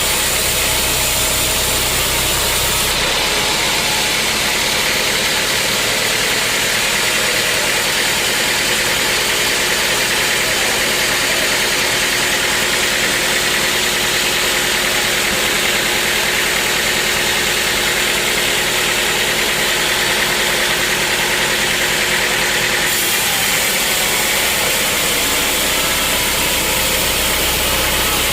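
Sawmill machinery running loudly and steadily. Its sound shifts for about twenty seconds in the middle, where the deep rumble drops away and a higher, harsher tone with a steady hum takes over, before the earlier sound returns.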